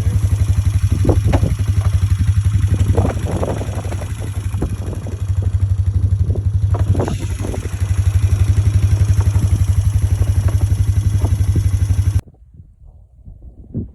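Four-wheeler (ATV) engine running with a steady, even beat, while loose metal parts rattle and knock. The engine cuts off suddenly near the end, leaving faint rustling.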